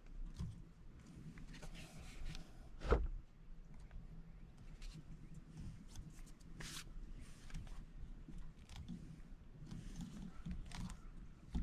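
Light handling noises: scattered clicks and rustling, with one sharp knock about three seconds in, as pipe fittings and tools are handled.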